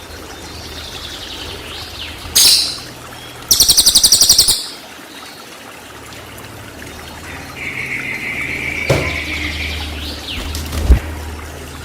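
Songbird song: a sharp loud call, then about a second of very rapid, high rattling notes, and later a held whistle followed by a sharp single note. These are the rapid-fire 'tembakan' phrases used to tutor and provoke cage birds.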